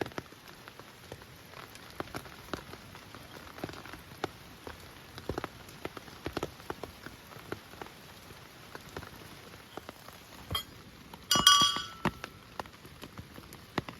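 Rain falling, with many single drops striking a surface at irregular intervals over a faint steady hiss. About eleven and a half seconds in, a brief, louder ringing clink.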